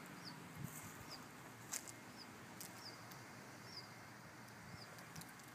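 A small bird in a tree repeating a short, high chirp that rises and falls, about once a second, with a sharp click about two seconds in.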